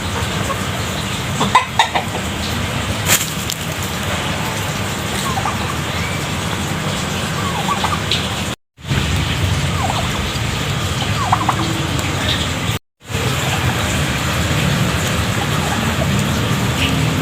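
Village chickens and turkeys calling, with short scattered clucks and calls over a steady background noise. The sound cuts out completely twice, each time for a fraction of a second.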